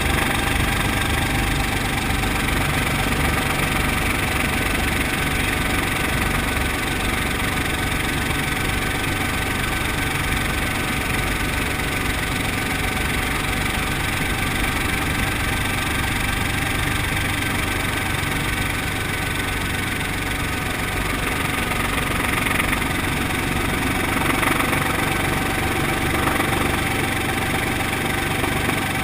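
Brantly B2B helicopter's four-cylinder piston engine and rotor running steadily, an even drone with a constant whine.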